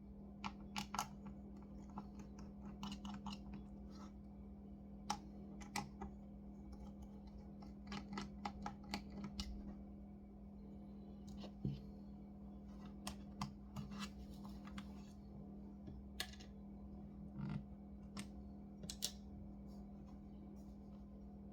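Scattered light clicks and taps, some in quick clusters, from small tools and parts handled on a laptop's case during disassembly, over a steady low hum.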